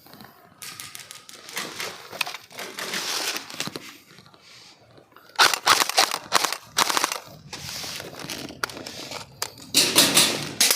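Airsoft electric guns firing on full auto in several bursts of rapid shots, the louder bursts from about halfway through and near the end.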